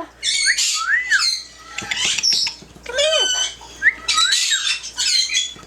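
Yellow-naped Amazon parrot calling: a run of short whistled notes that rise and fall in pitch, broken up with rough squawks.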